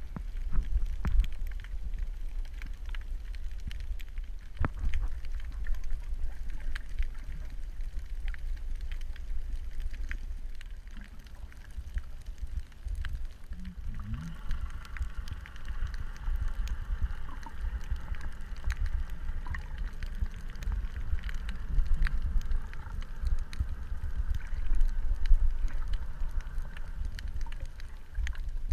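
Underwater ambience: a constant low rumble scattered with crackling clicks, joined about halfway through by a steady hum of several tones.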